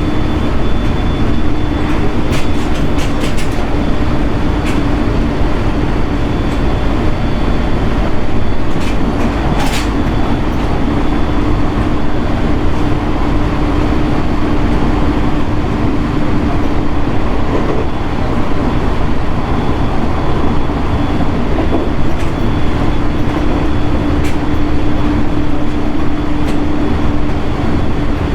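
JR East 701 series electric multiple unit running at speed, heard from inside the passenger car: steady rumbling running noise with a constant motor hum and scattered sharp clicks from the wheels crossing rail joints, several about two to three seconds in, a cluster around ten seconds, and again near the end.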